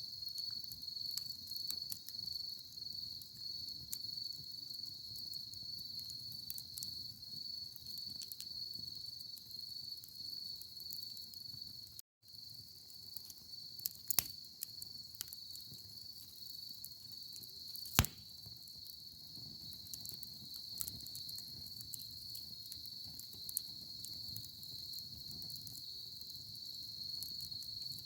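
Wood fire in a fire stand crackling, with scattered small pops and a sharp, louder pop about eighteen seconds in, over a steady high trilling of insects such as crickets. Everything cuts out for a moment about twelve seconds in.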